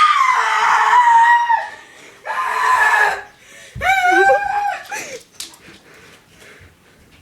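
A girl screaming in fright three times: a long scream that falls in pitch, a shorter one, then a wavering one.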